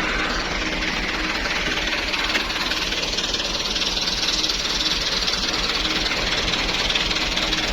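Truck engine running steadily, a low rumble under a broad hiss that grows louder about three to six seconds in.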